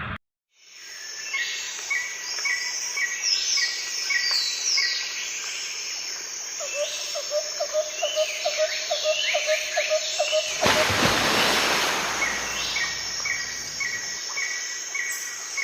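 Several birds chirping and calling in rapid repeated short notes. A rush of hissing noise comes in for a second or so about ten seconds in.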